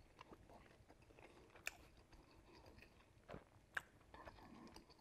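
A person quietly chewing a mouthful of roast chicken with crispy skin, with faint irregular crunches and two sharper clicks, one about a second and a half in and one near four seconds.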